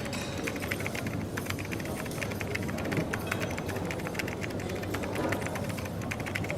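Coffee shop ambience: a steady murmur of background noise with many light clicks and clatter throughout.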